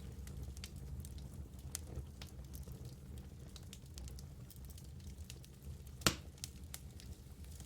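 Fire crackling in a fireplace: scattered sharp crackles over a low steady rumble, with one much louder pop about six seconds in.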